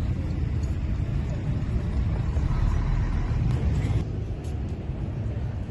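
City street traffic: a steady low rumble of road vehicles, with one passing closer and louder about three seconds in and falling away at about four seconds.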